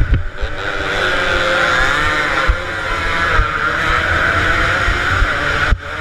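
Two-stroke motorcycle engines racing past, revving hard with their pitch rising and falling.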